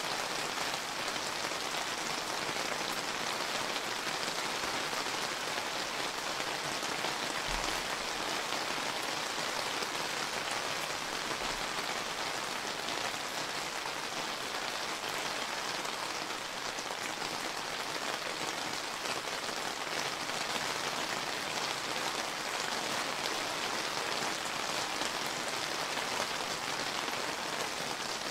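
Steady summer rain falling, a dense even patter of raindrops on surfaces.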